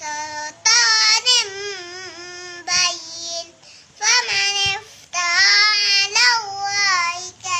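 A child's voice chanting Quranic recitation in a melodic, drawn-out style: several long, wavering phrases separated by short pauses.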